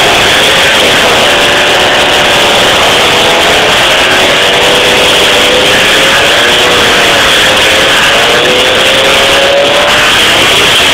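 Loud 50cc two-stroke moped engine with a complete Pro Race tuning setup, running hard, its pitch wavering slowly up and down with the throttle.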